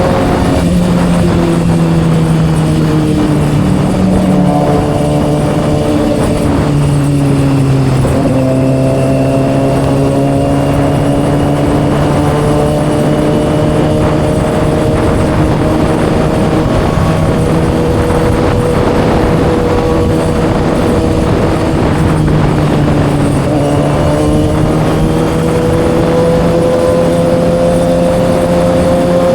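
Kawasaki ZX-6R inline-four engine through an M4 exhaust, heard while riding. Its pitch drops in a few steps early on, holds steady for a long stretch, then climbs gradually near the end.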